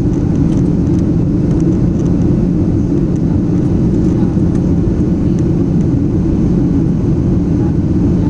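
Steady low rumble of an airplane cabin in flight, heard from inside the cabin.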